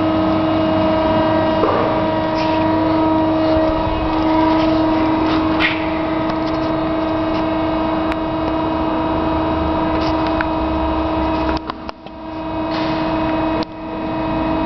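Cosen SH-700DM metal-cutting bandsaw running with a steady mechanical hum, with a few clicks and knocks. The sound drops sharply about twelve seconds in, then comes back up.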